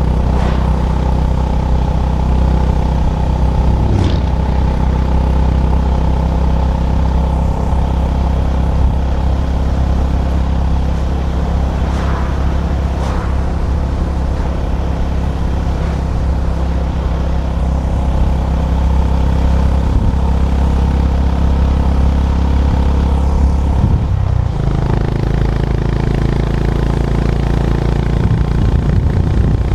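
Honda GB350's air-cooled single-cylinder engine running steadily while the motorcycle is ridden on the road. Its note shifts sharply about twenty-four seconds in.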